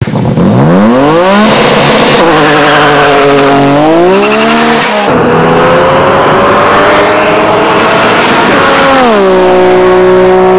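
Twin-turbo Nissan Skyline drag car with HKS GT3037S turbochargers accelerating hard at full throttle, the engine note climbing steeply and dropping back at the gear changes. Then comes a long, slower climb in pitch. About nine seconds in, the note falls and holds steady.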